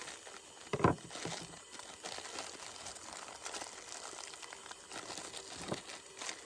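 Packaging crinkling and rustling as it is handled, with a sharp knock about a second in and another near the end.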